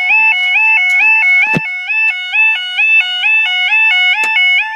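Level-crossing warning alarm sounding: a loud two-tone yodel that glides rapidly back and forth between a lower and a higher pitch without a break. A sharp knock cuts across it about one and a half seconds in.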